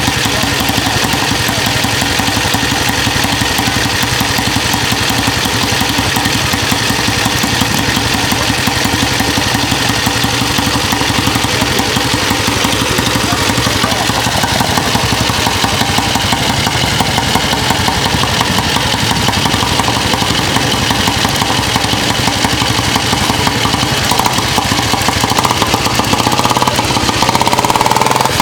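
Royal Enfield 500 motorcycle engine idling steadily with a rapid, even beat, picking up a little near the end.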